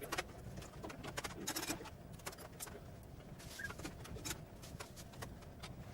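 Faint scattered clicks and taps, with a pigeon cooing in the background.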